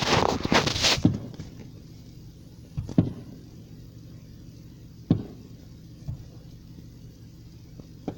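Aerial fireworks going off: a quick cluster of crackling bangs in the first second, then single booms about three and five seconds in, with fainter pops after, over a car engine's steady low hum.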